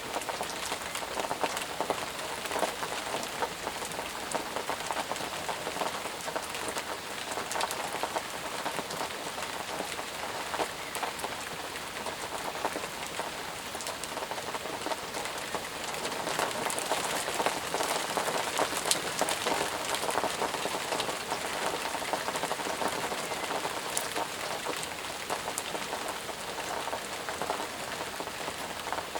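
Steady heavy rain falling, with a dense patter of drops hitting surfaces and no thunder.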